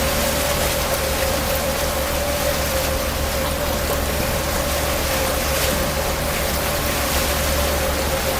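Motor tour boat under way: a steady engine hum with a constant whine over it, and a loud, even rushing hiss of water and wind.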